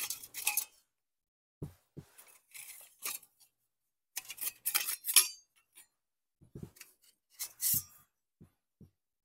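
Nested metal parts of a wood-burning gasification stove being pulled apart and set down on a table: metal scraping and clinking in several separate bursts, with a few dull knocks as pieces are put down.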